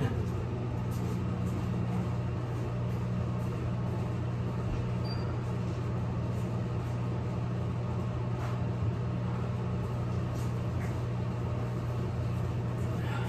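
Semi truck's diesel engine idling, a steady low hum heard from inside the cab.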